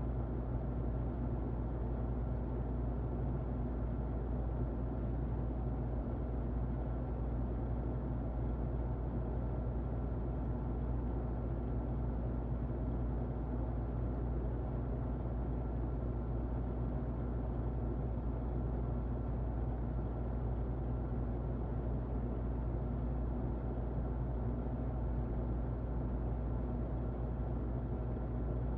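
Muffled electric fan running steadily: an even, low, rumbling whoosh with a faint steady hum and a thin whine in it.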